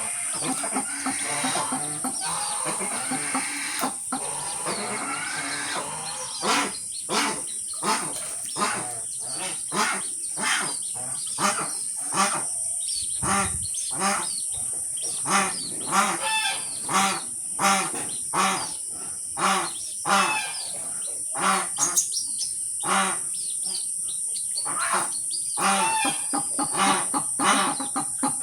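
Birds calling: a run of short, repeated pitched calls, about two a second, beginning about six seconds in, over a steady high hiss.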